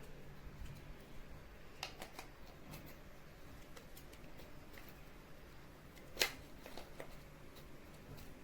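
Faint scattered clicks and light taps over a low steady hum, with the loudest click about six seconds in and a few close together around two seconds in.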